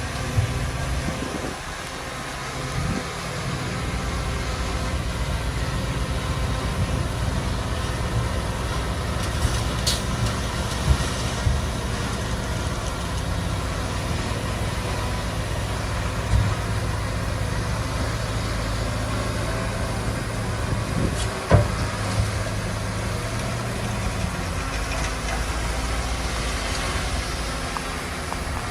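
Diesel engine of heavy earthmoving machinery running steadily, with a few sharp knocks; the loudest knock comes about three-quarters of the way through.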